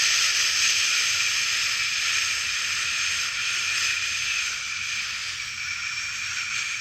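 A person making one long, steady 'shhh' shushing sound to lull a newborn to sleep, slowly growing a little quieter.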